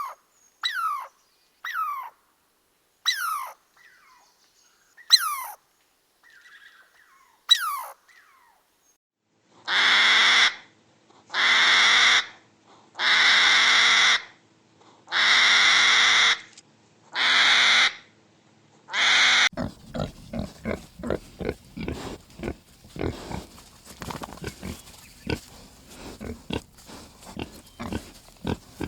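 Animal calls: first a handful of short squeaks falling quickly in pitch, then six long, harsh squeals about a second each at an even pace, then a fast irregular patter of small clicks.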